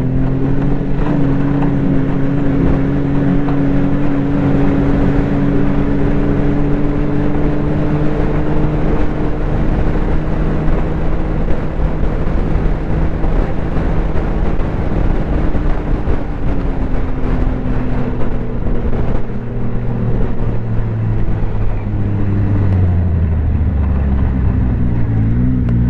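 Snowmobile engine running at a steady cruising speed while riding a trail. Its pitch drops about two-thirds of the way through as the sled slows, then rises sharply again right at the end as it speeds back up.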